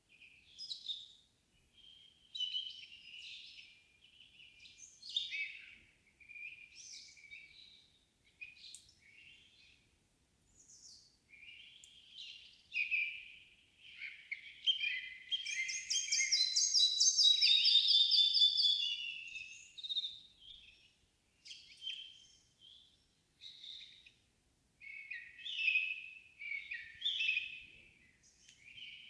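Several songbirds singing in a summer evening forest, short chirping phrases coming and going one after another. About halfway through, one bird sings a long, fast trill of rapidly repeated notes for about five seconds, the loudest sound.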